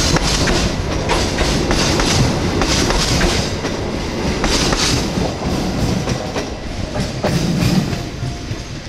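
Passenger train coaches rolling past close by, their wheels clattering over the rail joints in a regular clickety-clack. The sound fades near the end as the last coach moves away.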